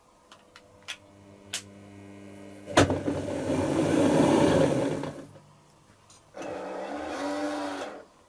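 Dyson Contrarotator CR01 washing machine's drum motor running in two short bursts near the end of the cycle. A faint whine builds, then the motor turns the drums with a loud rush for a couple of seconds, stops, and starts again with a rising whine for another second and a half.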